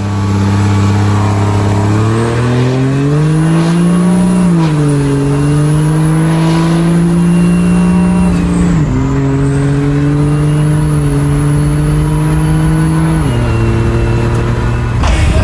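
Diesel truck engine pulling under load. Its pitch climbs a few seconds in, then holds steady and steps down at about four and a half seconds and again near the end, like gear shifts.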